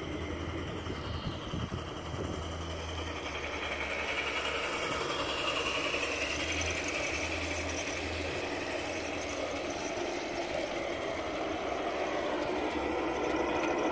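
Garden-scale model train running along its track, a steady mechanical whir that grows gradually louder as it approaches.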